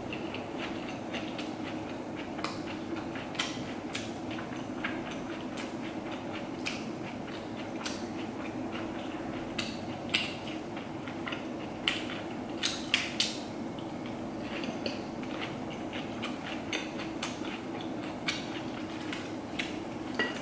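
Close-up eating sounds of a lettuce wrap: crisp bites and chewing, with sharp crunches about ten seconds in and a few more around twelve to thirteen seconds, over a steady low hum.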